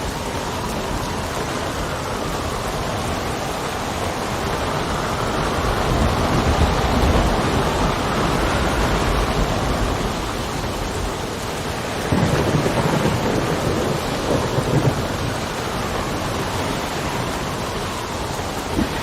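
Steady rain with wind, and a low rumble that swells up twice, about a third of the way in and again past the middle.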